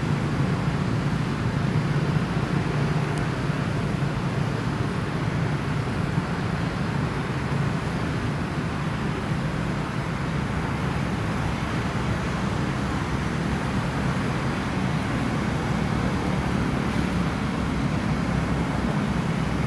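Steady low rumbling background noise that holds unchanged, with no distinct events.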